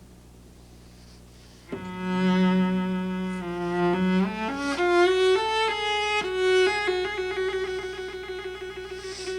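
Solo cello played with the bow. After a short pause, it holds a long low note, climbs in steps to a higher note, and sustains that note with a wide vibrato.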